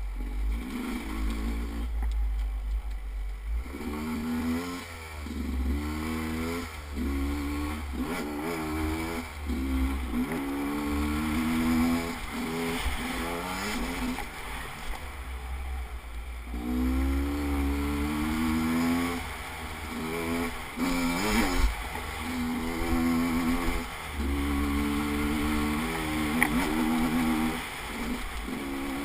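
A vehicle's engine running, its pitch repeatedly rising and falling as it revs up and eases off, over a steady low rumble.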